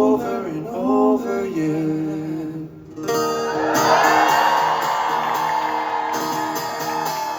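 Live pop song ending: a male voice sings the last line over acoustic guitar. About three seconds in, a held final chord rings under a swell of audience cheering.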